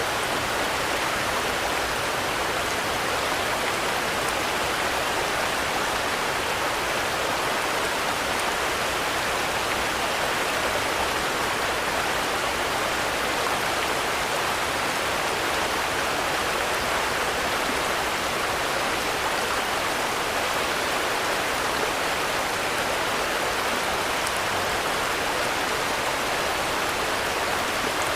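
Steady rain falling, a continuous even hiss with no thunder or distinct drips standing out.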